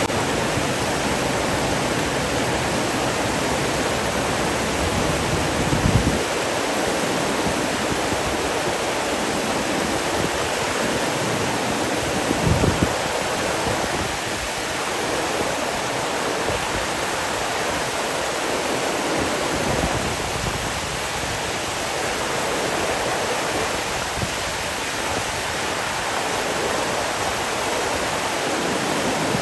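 Steady rush of flowing water, with two brief low thumps, one about six seconds in and one near the middle.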